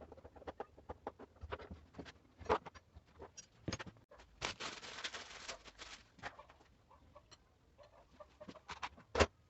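Irregular clicks and knocks of hard parts and tools being handled, with a hissing rush about halfway through and one sharp knock near the end.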